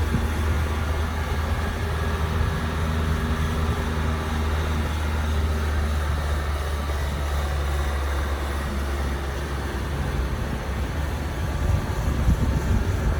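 Minibus driving on a steep mountain road: a steady low engine drone over road noise. The engine's higher tones fade about two-thirds of the way through.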